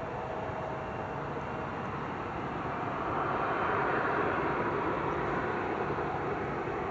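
Jet airliner engines heard from a distance as a steady rushing noise that swells about three seconds in.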